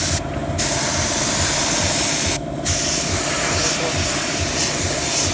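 Paint being sprayed in a steady hiss, applied as a thin titanium-effect coat, with two short breaks in the spray: one just after the start and one about two and a half seconds in. A steady low mechanical rumble with regular pulses runs underneath.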